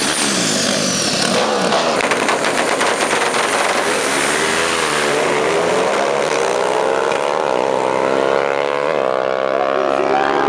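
Motorcycle engine running hard at high revs, its pitch rising and falling several times.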